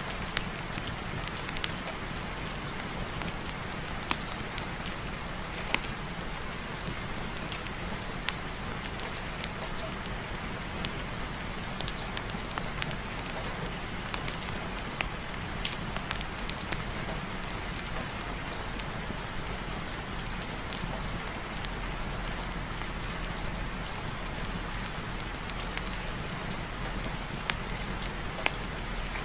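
Steady heavy rain with a fireplace fire crackling: an even hiss of rain with scattered sharp pops and clicks.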